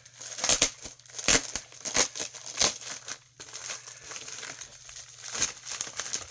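Packaging crinkling and rustling in irregular bursts as comic books are handled and unpacked from their box.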